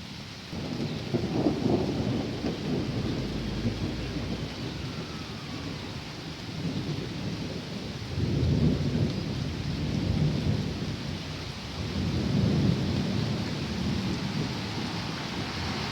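Thunder rolling over steady rain, the low rumble swelling three times: about a second in, around eight seconds, and around twelve seconds.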